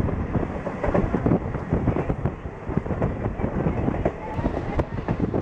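Passenger train coach running at speed, heard close to its side: a steady rumble of wheels on the rails with a dense, irregular clatter of knocks.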